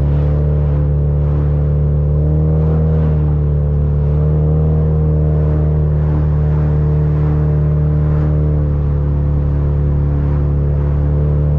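Car engine and drivetrain droning at a steady speed while cruising, heard from inside the cabin as a constant low hum.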